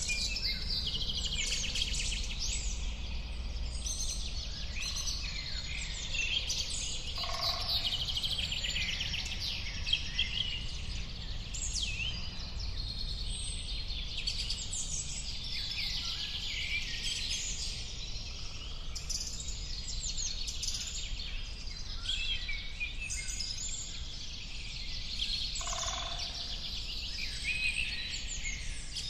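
A chorus of many small birds chirping and trilling over one another, with a lower call standing out twice, over a steady low rumble.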